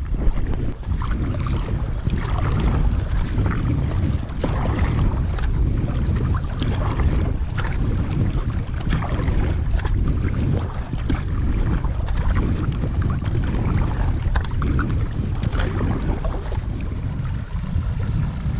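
Wind buffeting the microphone in a heavy low rumble, with water splashing and lapping around a kayak in irregular strokes every second or so.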